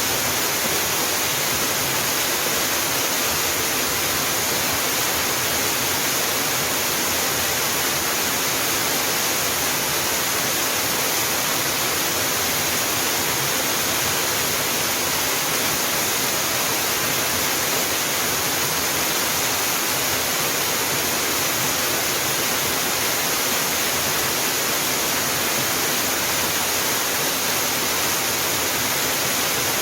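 A waterfall's water pouring and splashing steadily, a constant even rush with no pauses.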